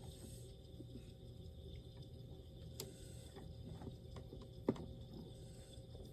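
Faint, scattered small clicks and light knocks of packaged items being moved and set down, with one louder knock about three quarters of the way through.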